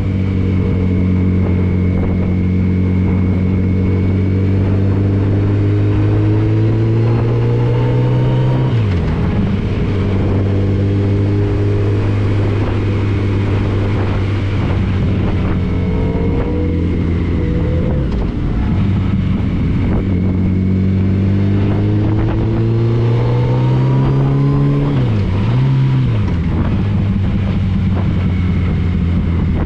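Touring motorcycle engine running under way, its note climbing slowly, then dropping sharply and picking up again about nine seconds in and again near twenty-five seconds in, with rushing wind noise throughout.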